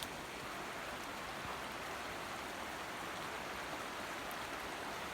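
Steady rush of a flooded creek running high and fast after heavy rain, its current strong enough to carry whole trees downstream.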